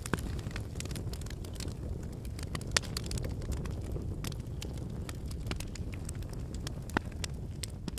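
Wood campfire burning: a steady low rush of flames with frequent sharp crackles and pops of the burning logs, the two loudest pops about three seconds and seven seconds in.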